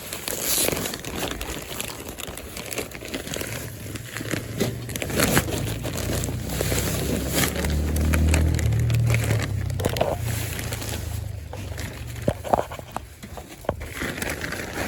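Plastic bag of garden soil crinkling and rustling as it is handled and emptied, with irregular crackles and crunches.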